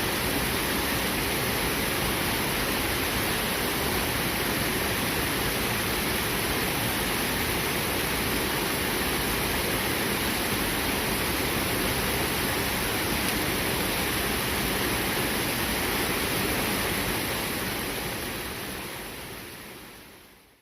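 Fast-flowing river rushing steadily over rocks, a dense even water noise that fades out near the end.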